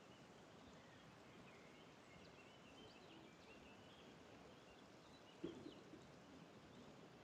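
Faint chirping of small songbirds, many short calls, over a quiet steady hush of outdoor background noise. A single brief thump about five and a half seconds in.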